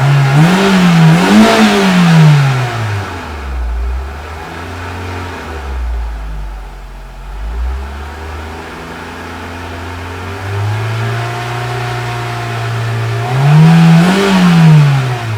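A 2002 Honda Civic EX's 1.7-litre four-cylinder engine being revved: two quick sharp revs at the start that fall back to idle, a few seconds held at a raised steady speed, then another sharp rev near the end that drops away.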